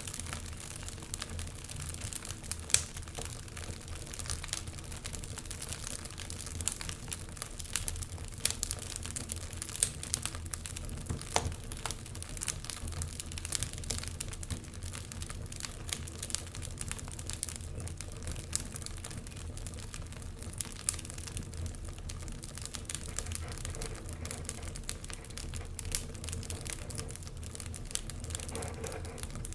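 Wood fire crackling in a fireplace: irregular sharp pops and snaps over a low, steady rumble of the flames, with one louder pop about three seconds in.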